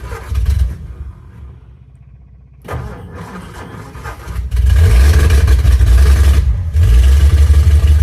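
Hudson Super Wasp's flathead straight-six being started from cold: a few short, uneven bursts of firing, then it catches about four and a half seconds in and keeps running loud and steady, with a brief stumble near seven seconds. It is a cold engine just come to life, which the owner expects to clean out once it has run for about ten seconds.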